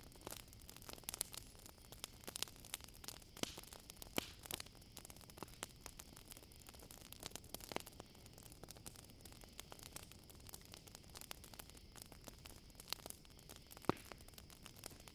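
Campfire crackling, with irregular sharp pops and snaps over a soft hiss, the loudest pop near the end. Behind it a steady high-pitched chorus of crickets trilling.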